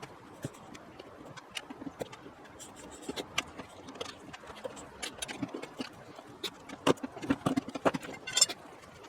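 Irregular clicks and light knocks of hand tools and metal parts being handled, busier and louder over the last few seconds.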